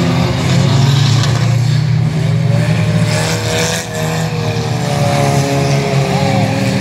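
Several banger racing cars' engines running and revving together, their pitch rising and falling, over a steady low drone.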